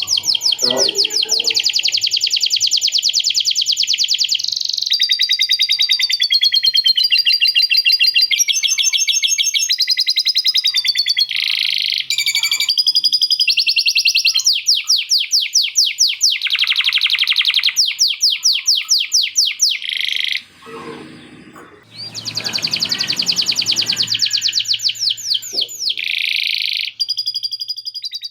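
Male canary singing a long, loud, continuous song of very fast trills and rolling phrases, with lovebird-style chattering phrases worked into it. The song breaks off briefly a little past two-thirds of the way through, then resumes.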